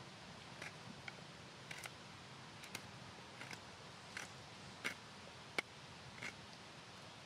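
Wood fire crackling: faint, sharp pops at irregular intervals, roughly one to two a second, over a low hiss.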